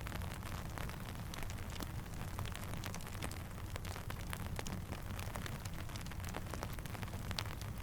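Steady rain falling with a low rumble underneath, dotted throughout with many sharp ticks and snaps from raindrops and a crackling campfire; one louder snap comes near the end.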